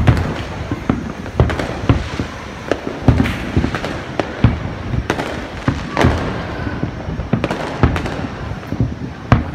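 Aerial fireworks display: shells bursting one after another at uneven intervals, sharp bangs over constant crackling.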